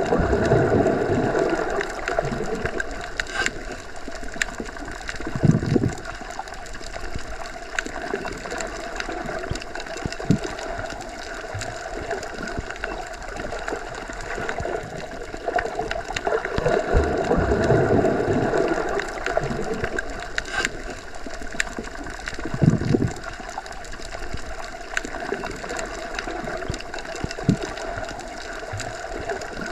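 Muffled underwater ambience: a steady wash of water noise heard submerged, swelling twice, with a few low thumps and scattered faint clicks.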